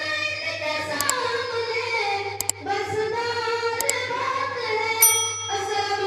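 A child singing a melodic line in long held notes that bend slowly in pitch. A short high ding sounds about five seconds in.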